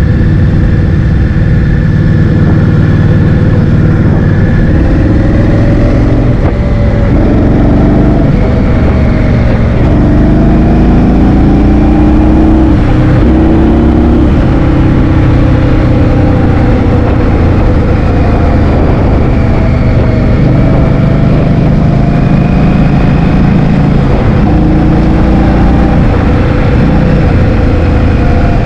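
Motor scooter engine running while riding, its note rising and falling with speed, under heavy wind noise on the microphone.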